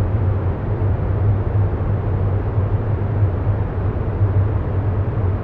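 Steady low rumbling background drone: an even, unchanging noise with most of its weight in the low end and a soft hiss above.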